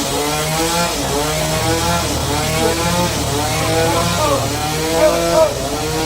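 Sawmill engine running under load, its pitch wavering and dipping briefly a little past the middle.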